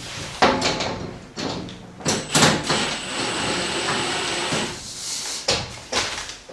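Plastic and metal track hardware being handled and fitted: several sharp clacks and knocks, with a few seconds of sliding or rubbing in the middle.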